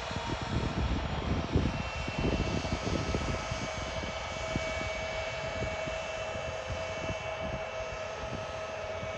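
Bombardier Global 8000 business jet's turbofan engines running at taxi power: a steady high whine. Uneven low rumbling, like wind buffeting the microphone, is strongest in the first few seconds.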